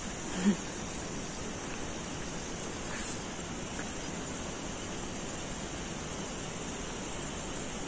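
Steady outdoor background hiss with a thin high, even drone above it, broken about half a second in by one brief low sound.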